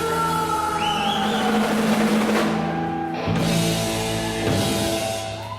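Live punk rock band of electric guitar, bass and drum kit playing the closing bars of a song, with long held chords ringing out.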